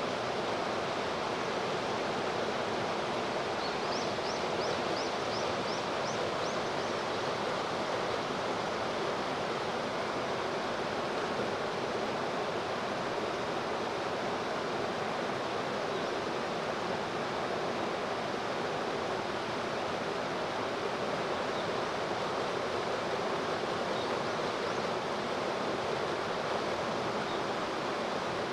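Steady rushing of river water. About four seconds in, a bird gives a quick run of about eight high chirps.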